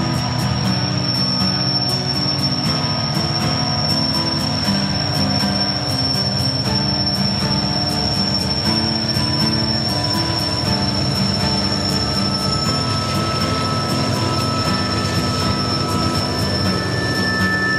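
BNSF diesel-electric locomotives pulling a loaded coal train slowly past, their engines droning with shifting low tones, then the coal hopper cars rolling by with a steady rumble of wheels on rail. A steady high-pitched tone sits over the rumble throughout.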